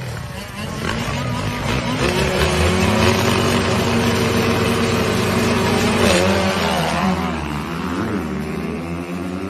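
Dirt bike engine revving up over the first two seconds and held at high revs for about four seconds, then rolling off about six seconds in and running at lower, uneven revs.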